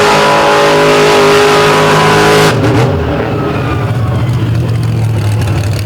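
Monster truck engine held at high revs, then the throttle closed suddenly about two and a half seconds in, dropping to a lower running note.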